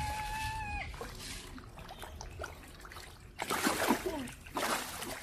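Water splashing in two short bursts in the second half.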